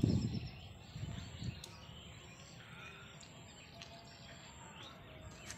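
Faint outdoor rural ambience with a few scattered bird chirps; a low rumble of wind or handling on the phone's microphone in the first half second.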